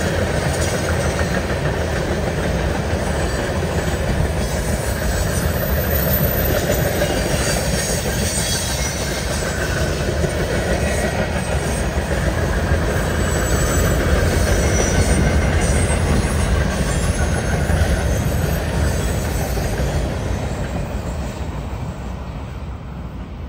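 Canadian National freight train's cars rolling past: a steady rumble of steel wheels on rail with a faint high wheel squeal, fading over the last few seconds as the train moves off.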